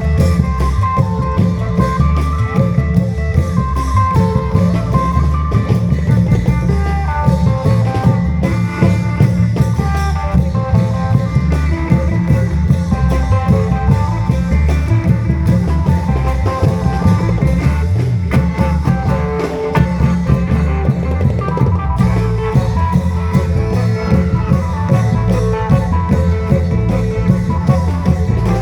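Isan klong yao long-drum ensemble playing: dense, heavy drumming under a continuous melody line in Isan style.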